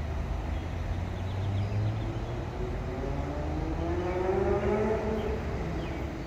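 A steady low engine drone, with an engine note that climbs slowly in pitch for a few seconds in the middle and then fades.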